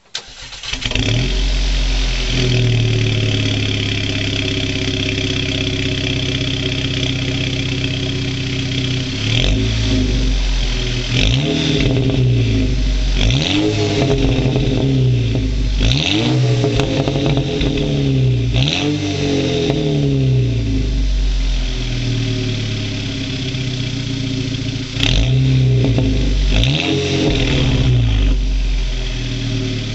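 Exhaust of a 2009 Volkswagen GTI's turbocharged 2.0 TSI four-cylinder, with a catless 3-inch downpipe and the rear muffler deleted, starting up abruptly, idling steadily, then blipped through a series of short revs, about eight, each rising and dropping back to idle.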